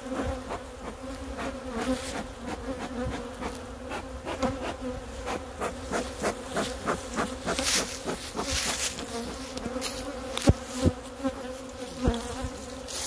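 A cloud of honey bees buzzing in a steady hum around an opened-and-closed hive, stirred up and defensive after the hive was taken apart. Many light taps and knocks sound through the hum.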